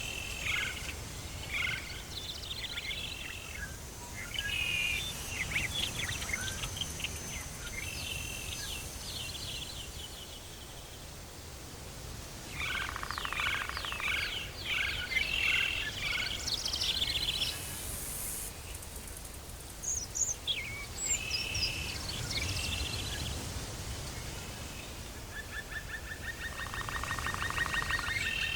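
Tropical forest ambience: many birds calling and chirping in clusters, with a faint steady low rumble underneath.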